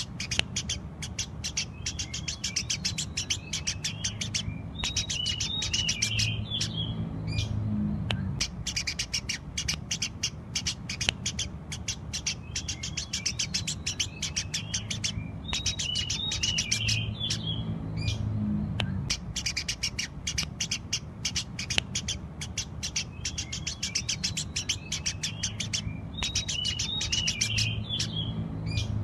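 Eurasian tree sparrow chirping rapidly and without pause, with bursts of chattering notes, over a low rumble. The same chattering passage comes round about every eleven seconds.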